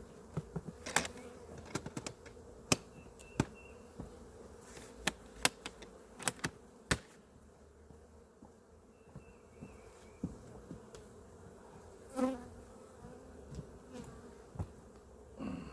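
Honeybees buzzing steadily around open hives, with a string of sharp clicks and knocks over the first seven seconds and a couple of brief louder sounds later.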